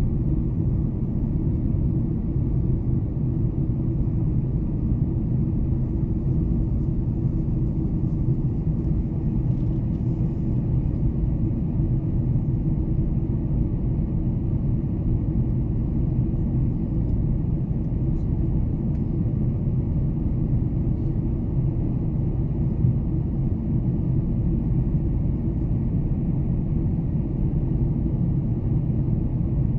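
Steady low cabin rumble inside a Boeing 747-400 under way: the four jet engines and the airflow over the fuselage give an even, unchanging drone.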